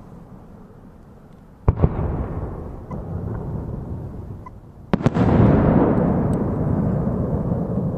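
Aerial firework shells bursting: a sharp double crack about two seconds in, then a louder boom about five seconds in that rolls on in a long rumbling echo.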